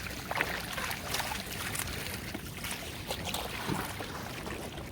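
Shallow floodwater splashing and trickling, with scattered small splashes.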